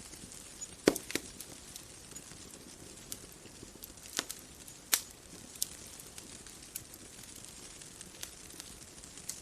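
Wood fire crackling: irregular sharp pops and snaps, the loudest about a second in and around four to five seconds in, over a soft, steady hiss.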